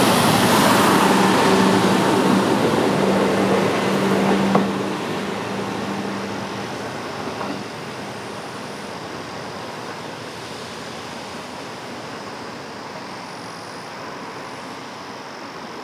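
Diesel railcar moving along the track, its engine drone steady and loud at first, then dying away after about four and a half seconds as the train draws off, leaving a faint steady hiss.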